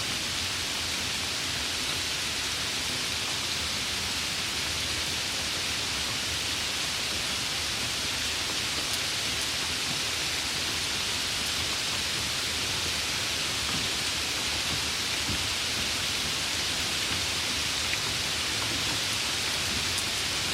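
Steady rain falling, an even hiss of drops with a few faint patters.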